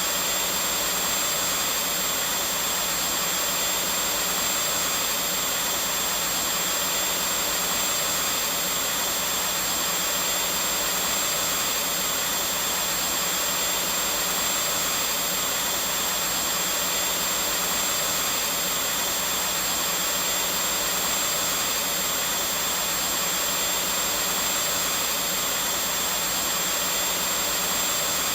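Vacuum cleaner running steadily, an unbroken rushing whir with a faint high whine and a low hum.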